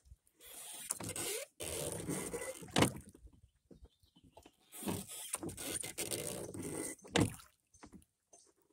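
Wherry being rowed: stretches of swishing noise, each ending in a sharp knock, about four seconds apart.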